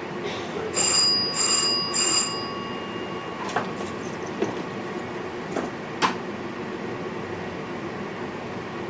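Bell signal in a train driver's cab chiming three times in quick succession, each ring dying away, followed by a few sharp clicks over the steady rumble of the cab.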